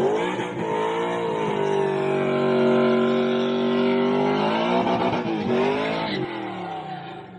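Car engine revved high and held at a near-steady pitch for a few seconds. It wavers, falls and drops away about six seconds in.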